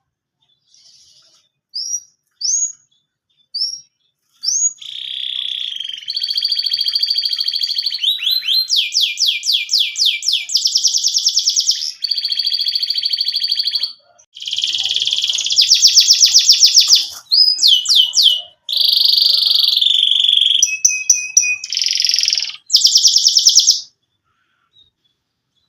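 Canary singing a long song: a few short rising chirps, then loud rolling trills and buzzy phrases one after another without a break, stopping near the end. This is a male in breeding condition singing hard to court a mate.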